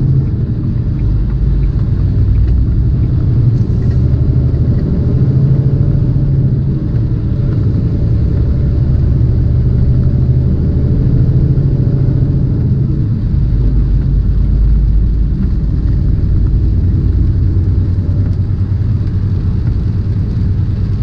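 Tractor-trailer's diesel engine and road noise heard from inside the cab while driving: a steady low drone and rumble with a faint hiss of tyres on the wet road.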